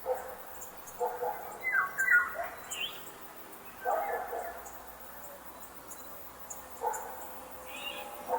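Forest ambience with short, repeated animal calls every few seconds, over faint high ticking.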